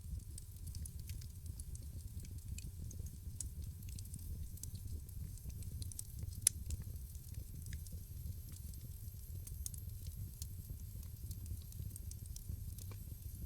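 Wood fire crackling in a fireplace: scattered sharp pops and ticks over a steady low rumble of flame, with one louder pop about halfway through.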